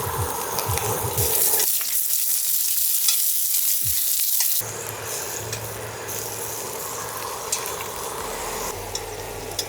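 Food sizzling and frying in hot fat, a dense hiss with faint crackles. It turns brighter and hissier from about a second in until about four and a half seconds, then changes abruptly back to a quieter sizzle.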